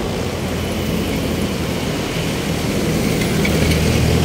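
Street traffic, with a heavy vehicle's engine running close by and growing a little louder near the end.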